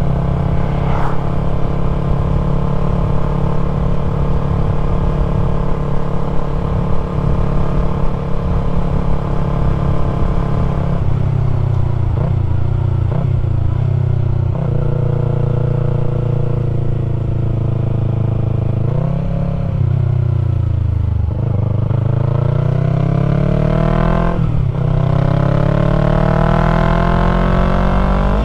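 Yamaha MT-03's parallel-twin engine running through an aftermarket full-system exhaust while riding. It holds a steady speed for about ten seconds, then eases off and changes gear, with a short blip and a drop in pitch about two-thirds of the way in. It then pulls away with rising pitch, with one upshift before the pitch climbs again near the end.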